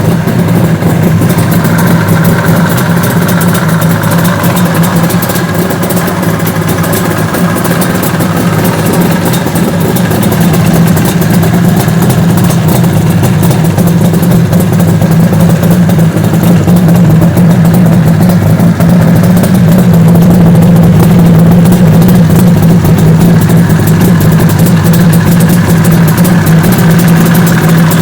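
Suzuki GT550 two-stroke three-cylinder engine idling steadily through its three separate tuned expansion-chamber exhausts with short tail pipes. The sound is loud and even, with no revving.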